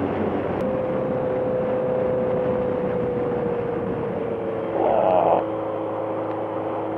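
Motorcycle engine and wind noise while riding. The engine note slowly falls, a brief louder burst comes about five seconds in, and the engine then settles to a lower note.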